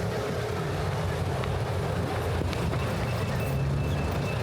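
Steady low rumble of traffic on a busy city avenue.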